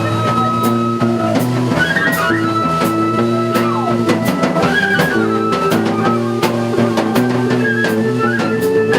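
Live rock band playing: electric guitar chords over a steady drum-kit beat with cymbal hits.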